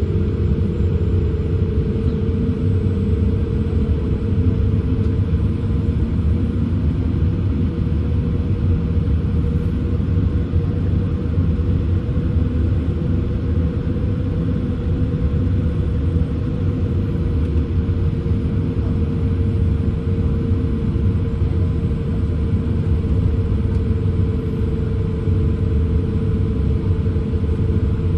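Steady low rumble inside the cabin of a Boeing 787-8 taxiing on idle engines, with a steady mid-pitched hum running through it.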